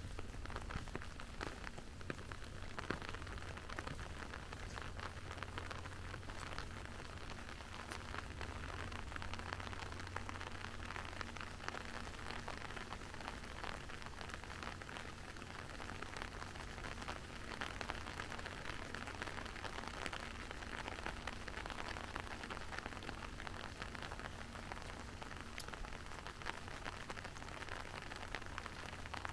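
Steady rain falling: a dense, even hiss of fine drop ticks, over a low steady hum.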